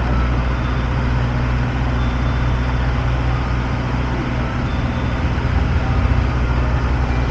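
Steady low hum of an engine running at idle, with the even rumble of street traffic around it.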